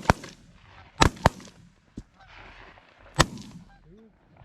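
Shotguns firing at geese over decoys: four sharp shots, one just at the start, two close together about a second in and a last one about three seconds in. A honk sounds shortly after the last shot.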